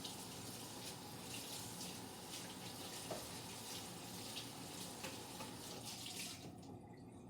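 Kitchen tap running water over a cutting board in the sink as it is rinsed off, a steady splashing hiss that cuts off about six and a half seconds in when the tap is turned off.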